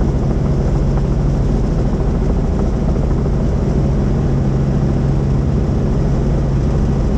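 Helicopter in flight: the steady drone of its rotor and engine, with a strong low hum and a rapid low beating that hold even throughout.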